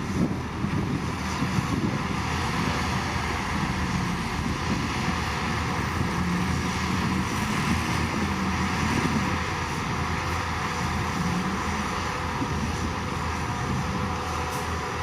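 Heavy earthmoving machine's diesel engine running steadily, its pitch wavering slightly.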